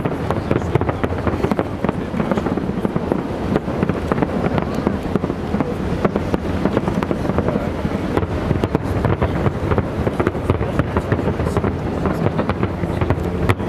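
Fireworks display: aerial shells bursting in a rapid, unbroken stream of bangs and crackles.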